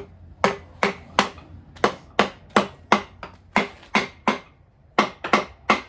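Hammer striking a part of the 1984 Chevy truck engine about fifteen times in quick uneven runs, about three blows a second, to break it loose from its gasket.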